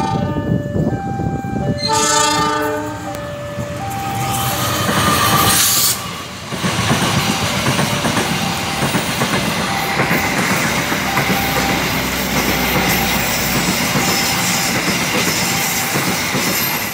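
Diesel locomotive sounding its horn twice, near the start and about two seconds in, while a level-crossing bell chimes about once a second. The locomotive then rushes past, and its passenger coaches go by at speed with wheels clattering over the rail joints.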